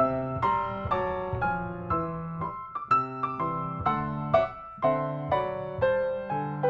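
Background piano music: a gentle melody of separate notes, about two a second, over low sustained bass notes.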